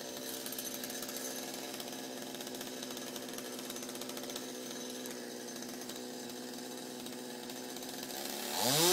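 Chainsaw engine running steadily, then revving up and back down, louder, near the end.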